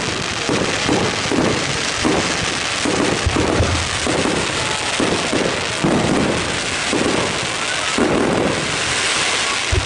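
Fireworks display going off in a dense, continuous barrage of crackling and bangs, with repeated bangs about twice a second.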